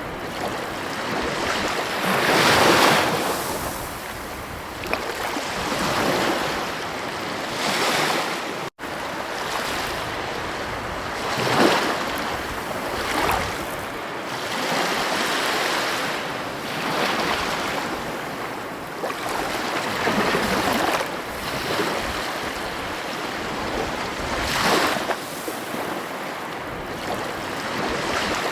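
Ocean waves breaking on a beach: a steady wash of surf that swells and falls back every three to five seconds. The sound cuts out for an instant about nine seconds in.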